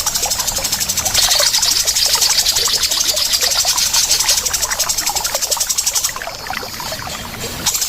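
Bird-song training recording: a fast, even, high-pitched pulsing trill over a dense trickling texture of many short chirps, growing somewhat quieter after about six seconds.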